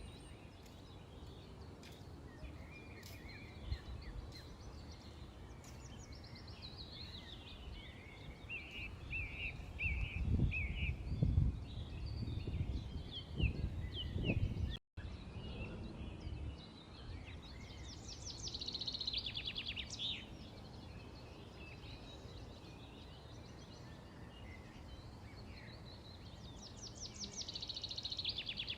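Several small birds chirping and calling over steady outdoor background noise, with rapid trills twice in the second half. A low rumble comes in about a third of the way through and stops abruptly about halfway, with a momentary gap in the sound.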